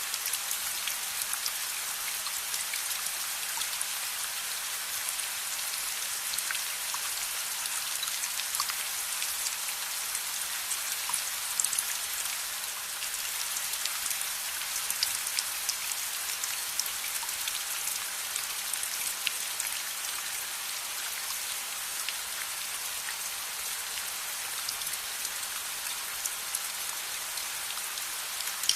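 Steady rain falling, an even hiss with many scattered sharp drop ticks throughout.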